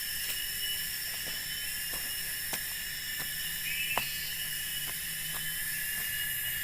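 Steady, high-pitched drone of forest insects, several tones layered over one another. A few sharp clicks or knocks are scattered through it, the loudest about four seconds in.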